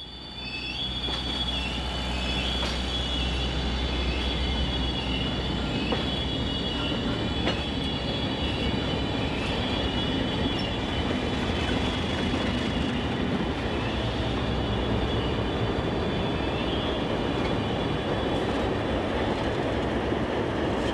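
Passenger cars of a train rolling past over a low rumble, their steel wheels squealing against the rail in thin, high, wavering tones.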